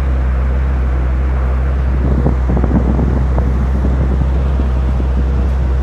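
Racing motorcycle engines running on the starting grid under a steady low hum, with a few brief sharper sounds about two to three seconds in.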